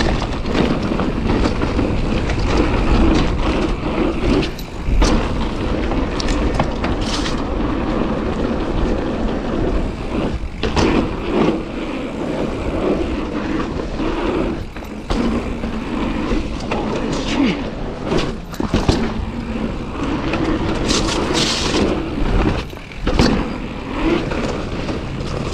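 Commencal mountain bike descending a steep rocky trail at speed: a steady rush of wind over the camera microphone, with tyres crunching over rock and dirt and frequent short knocks and rattles from the bike as it hits bumps.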